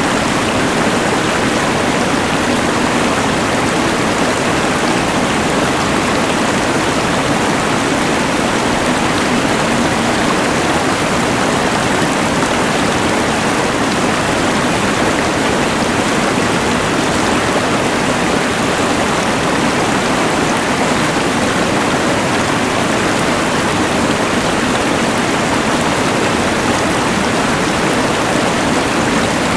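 A rushing mountain river blended with the hiss of a LectroFan white noise machine, making a steady, unbroken wash of noise.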